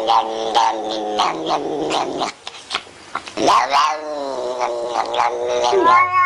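An animal crying out in long, wavering, drawn-out calls, one after another, with a quieter gap about two and a half seconds in and a sharp swoop down and up in pitch about three and a half seconds in.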